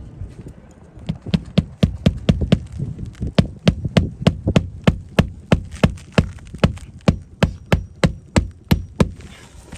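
Hammer driving nails to fasten a replacement roof shingle: quick, even strikes about three or four a second, starting about a second in and stopping near the end.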